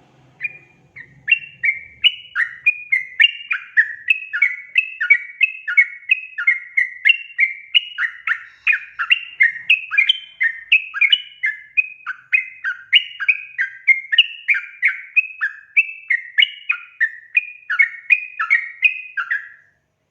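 Yellow-vented bulbul (trucukan) singing: a long, loud run of quick chattering phrases, about two a second, that cuts off just before the end.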